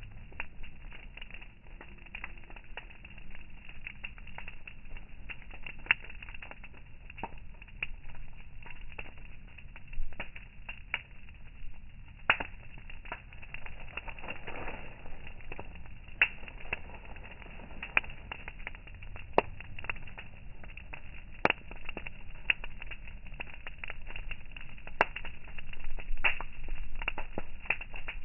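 Campfire burning, wood crackling with irregular sharp pops and snaps over a low steady hiss.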